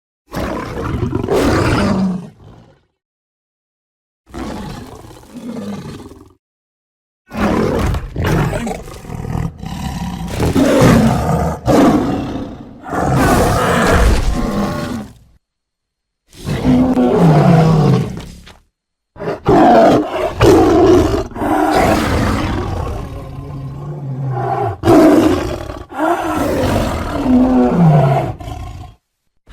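A string of big-cat roars and growls, one sound clip after another, each cut off abruptly by a short silence.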